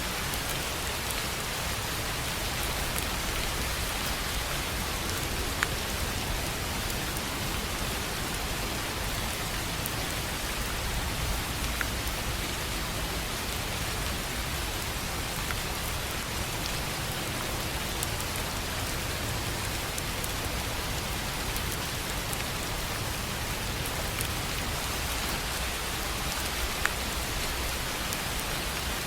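Steady rain falling on a tin roof, an even hiss with a few louder single drops striking sharply now and then.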